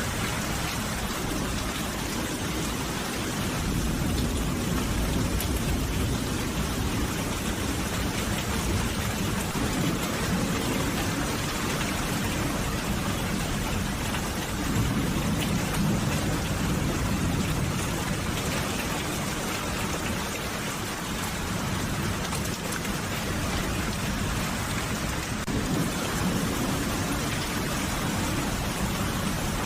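Steady rain falling in an even hiss, with a low rumble that swells about halfway through and fades again.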